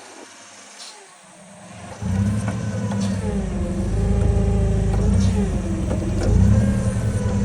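Forklift engine coming up loud about two seconds in and running on with its revs rising and falling as it lifts the boat engine on the chain.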